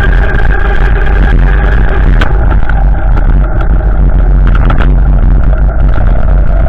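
Strong storm wind gusting over the microphone: a loud, continuous, deep rumbling buffet with no let-up.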